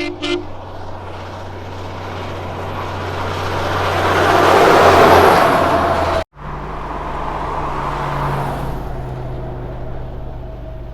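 Diesel prime mover of a multi-trailer road train driving past: a steady low engine drone with road noise building to a peak about five seconds in. After a sudden cut, a second truck's engine drones on and slowly fades. Two short pitched toots come right at the start.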